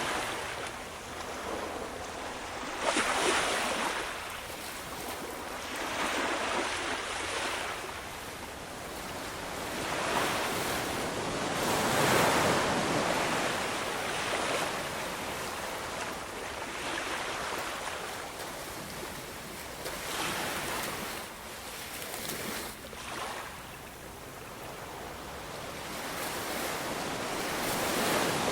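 Ocean waves breaking and washing on the shore, a steady rushing surf that swells and fades every few seconds.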